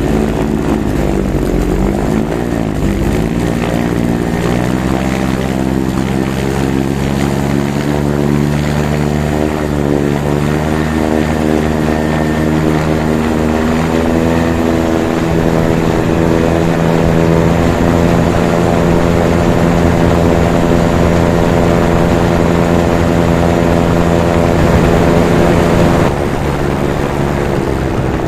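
Simonini Mini 3 two-stroke engine running, its speed wavering up and down for the first few seconds, then climbing and holding steady at higher revs before easing back a little near the end.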